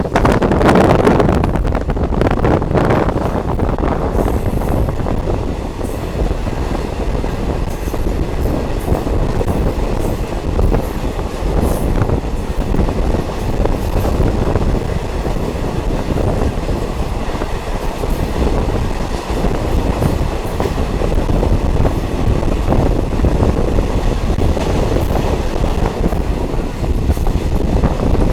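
Steady rumble of a diesel multiple unit train in motion, with faint clicks of the wheels over the rail joints.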